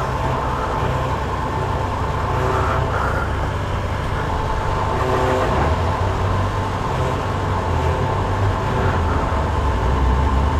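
Steady low mechanical rumble with a constant hum, the sound of vehicles or an engine running at a petrol station forecourt.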